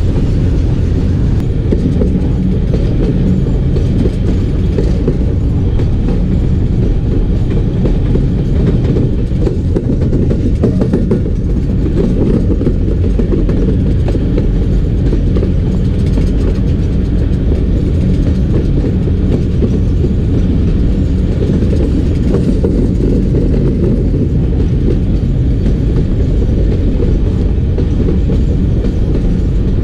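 A passenger train running along the track, heard from an open coach window: the steady, loud rumble and rattle of the coaches' wheels on the rails, heaviest in the low end.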